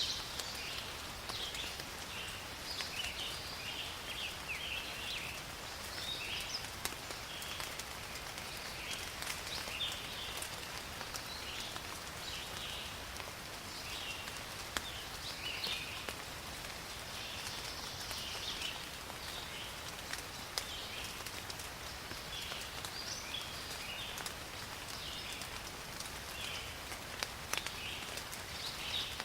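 Steady rain falling in a forest, with a few sharp drop ticks, and short high-pitched chirps calling over it again and again.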